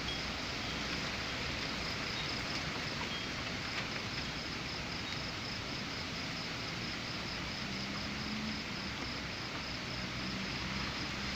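Steady rush of storm rain and wind, with a faint high insect chirring that pulses at an even rate.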